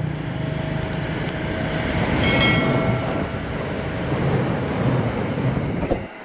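Diesel train passing close beneath, a loud rumble of engine and wheels on the rails, with a steady engine tone. A brief high-pitched ringing tone comes about two seconds in. The sound drops away suddenly near the end.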